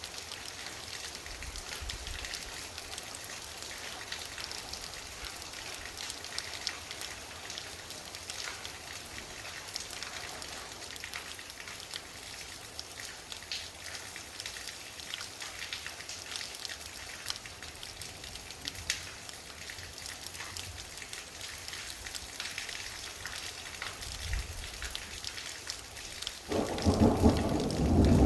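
Rain falling steadily, with many separate drop hits and a faint low rumble of distant thunder now and then. About 26 seconds in, a loud thunderclap sets in with a deep rumble that quickly grows louder.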